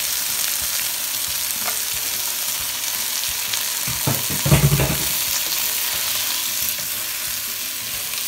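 Green string beans sizzling in hot oil in a frying pan, stirred with a wooden spatula. A cluster of louder knocks and scrapes of the spatula against the pan comes between four and five seconds in.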